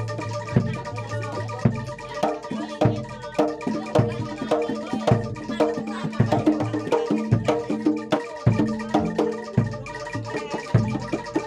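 Live Javanese gamelan music for a kuda lumping dance: drum strokes and tuned metal percussion playing in a steady rhythm over sustained ringing tones.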